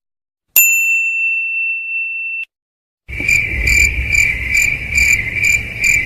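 A single bright bell-like ding that rings for about two seconds and is cut off abruptly. About three seconds in, crickets start chirping in an even pulse of roughly two chirps a second over a low rumble, the stock 'awkward silence' cricket sound effect.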